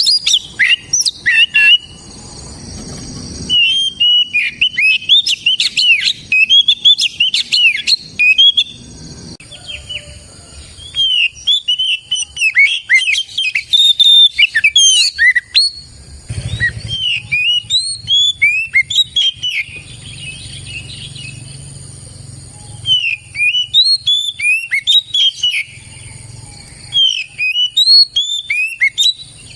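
Oriental magpie-robin singing in bouts of rapid, varied whistled notes that glide up and down, with brief pauses of a second or two between bouts.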